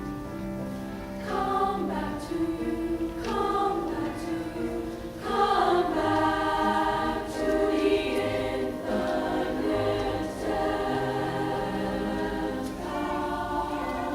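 Women's choir singing held chords, the voices swelling louder about five seconds in.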